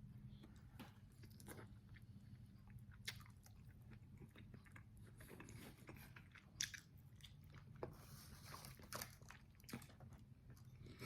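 Close-miked chewing and biting of extra-well-done fried chicken wings: scattered crisp crunches, the sharpest about 3 and 6.5 seconds in, over a steady low hum.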